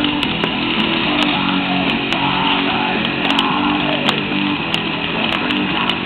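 Large bonfire of eucalyptus wood burning with a steady roar and frequent sharp crackling pops at irregular intervals.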